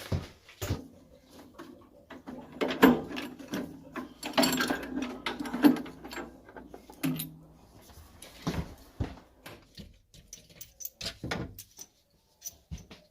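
Irregular clicks, knocks and clatter of hand tools and metal fittings being handled during boiler repair work, loudest in the middle.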